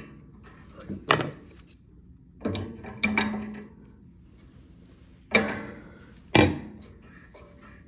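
A handful of sharp knocks and clacks of hard parts and tools being handled while a steam valve is reassembled and tightened after its leak repair, some ringing briefly.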